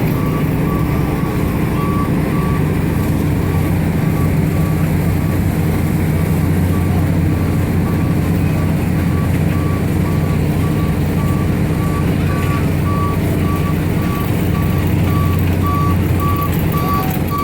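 Carnival train ride running with a steady mechanical drone, while a high electronic beep repeats at even intervals.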